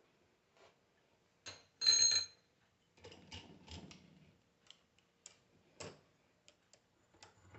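Metal parts and tools being handled on a workbench: a clattering knock with a brief metallic ring about two seconds in, followed by scattered light clicks and taps.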